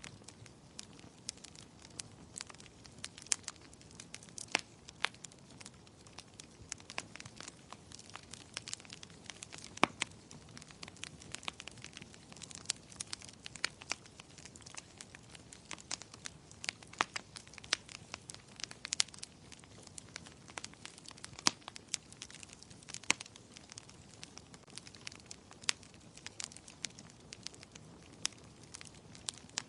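Wood fire crackling in a fireplace: irregular sharp pops and snaps, several a second, over a soft low hiss of burning.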